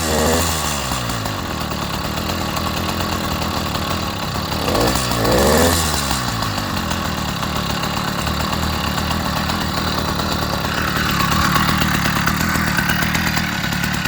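80cc two-stroke motorised bicycle engine idling, revved up and back down once about five seconds in.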